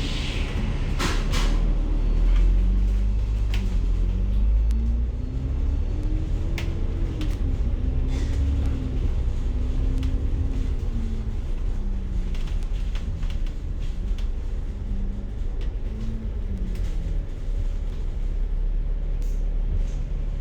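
City bus running, heard from inside the cabin: a low rumble with a whine that rises and falls as the bus speeds up and slows, and scattered rattles and knocks.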